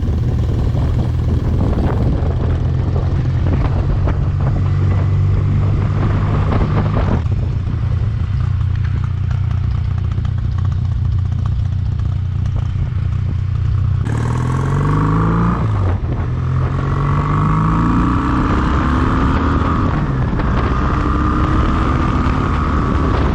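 Kawasaki W800's air-cooled parallel-twin engine running at a steady pace with wind rush. About 14 seconds in, the revs climb, drop and climb again several times, as when accelerating through the gears.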